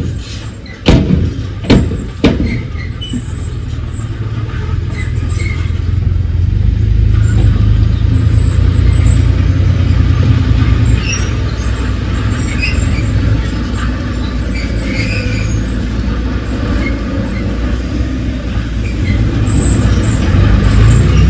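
Heavy diesel engine of earthmoving machinery running steadily with a low drone, louder from about six seconds in and again near the end. A few sharp metallic knocks come in the first couple of seconds.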